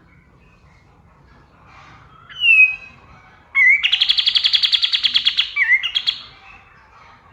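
Kapas tembak singing: a short falling whistled note, then a loud, rapid rattling trill of about fifteen notes a second lasting roughly two seconds, closed by a couple of short notes. Faint chirping goes on in the background.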